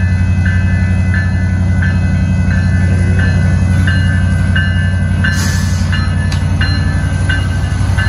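Union Pacific diesel locomotives running past with a steady heavy low rumble. A grade-crossing signal bell rings about twice a second, and there is a brief hiss about five seconds in.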